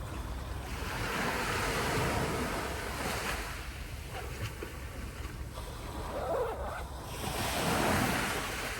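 Sea waves washing onto the beach, swelling twice: about a second in and again near the end.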